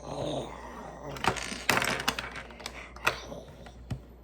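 Small plastic Lego pieces clicking and rattling as they are handled, in a string of sharp irregular clicks with a denser clatter a little before the middle.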